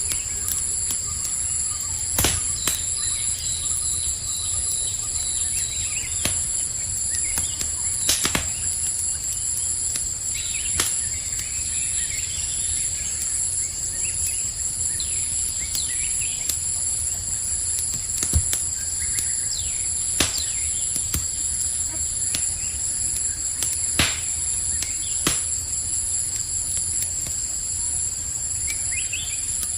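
Campfire crackling with scattered sharp pops, over a steady high-pitched chorus of night insects, with occasional bird chirps.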